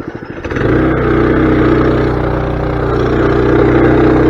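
Mini bike engine idling with a pulsing beat, then opened up about half a second in and held at steady higher revs, the bike being run hard to throw off mud.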